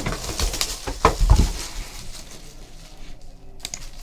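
Crinkling plastic wrap and light taps and clicks as a sealed trading card box is handled and opened, busier in the first two seconds and down to a few sharp clicks near the end.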